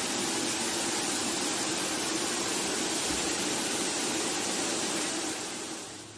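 Steady, even rushing noise that cuts in abruptly and fades out near the end.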